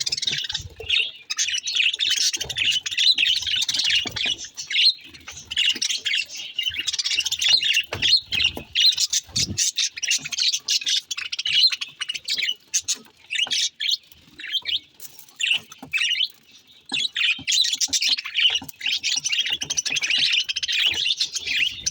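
Pet budgies (budgerigars) chirping and warbling in fast, busy chatter, with a brief lull a little past the middle.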